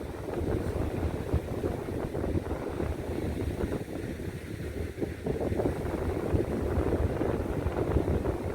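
Wind buffeting the microphone: an uneven low rumbling rush that gusts up and down.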